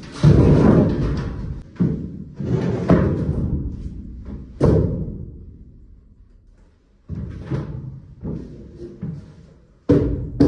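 Irregular heavy thuds and slams from building work, each ringing out for a second or more, with a lull about two-thirds of the way through. Just before the end a quicker, even beat begins.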